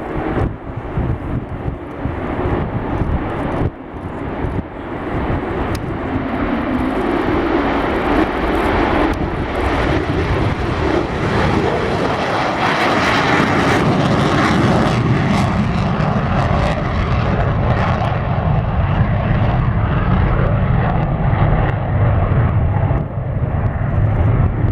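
Lockheed Martin F-35 fighter's single afterburning turbofan at takeoff power: a loud jet rush that builds over several seconds and peaks about halfway. It then loses its higher hiss, leaving a deep rumble.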